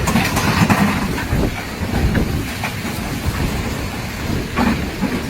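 Strong storm wind blowing on the microphone as a steady low rumble and rushing noise, with scattered knocks and rattles.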